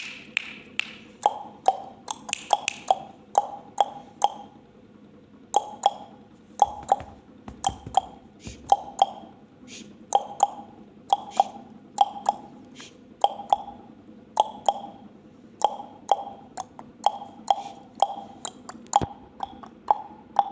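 A parrot making sharp, pitched popping clicks over and over, mostly in quick pairs or threes, about two to three a second with short pauses between groups.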